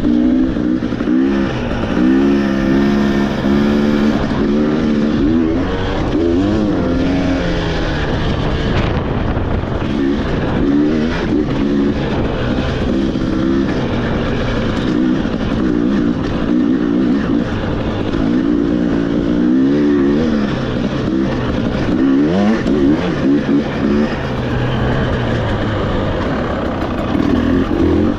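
Off-road motorcycle engine running under the rider's throttle, its pitch rising and falling over and over, with a steady rumble of wind and ground noise underneath.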